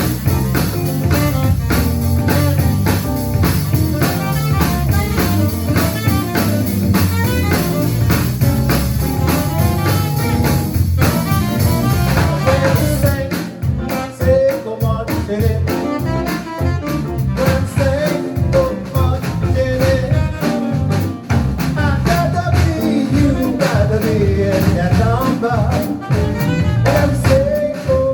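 A live band playing New Orleans-style jazz and blues, with a drum kit keeping a steady beat under guitar, and a wavering melody line coming in about halfway.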